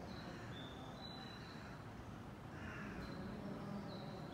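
Faint station ambience: the low, steady rumble of a 500 series Shinkansen receding into the distance, with a few short, thin high tones and a brief bird call about two and a half seconds in.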